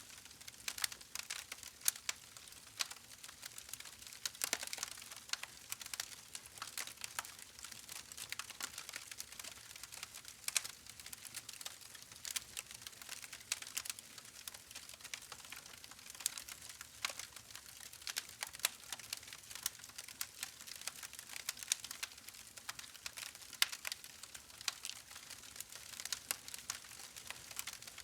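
Campfire crackling: a soft steady hiss with many irregular sharp pops and snaps, some louder than others.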